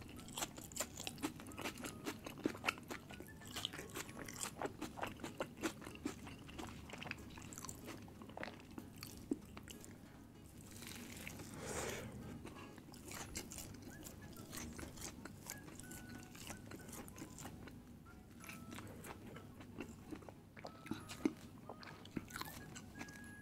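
A person eating close to the microphone: repeated bites and chewing, with many small crunchy clicks and wet mouth sounds.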